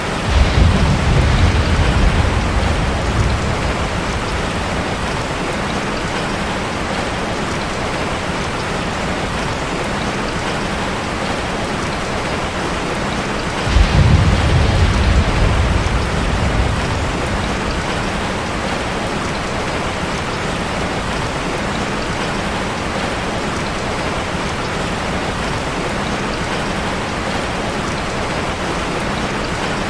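Steady heavy rain drumming on a metal roof, with two low rolls of thunder lasting a few seconds each, one at the very start and one about halfway through.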